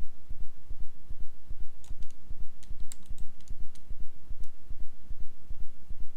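A few scattered computer mouse and keyboard clicks over a steady low throbbing pulse of about four beats a second.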